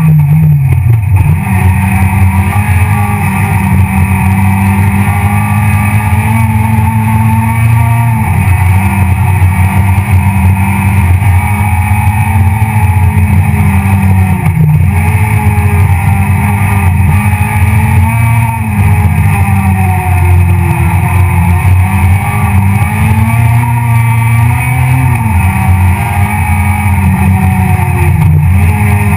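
Citroën C2 R2 Max rally car's 1.6-litre four-cylinder engine heard from inside the cabin, run hard at high revs. Its pitch climbs and then drops sharply several times as the driver shifts gear.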